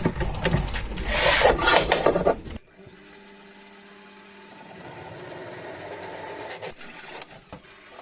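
Electric drill boring a 10 mm hole through steel plate, the bit cutting with a loud rough scraping. It stops abruptly about two and a half seconds in, leaving a much quieter steady hum.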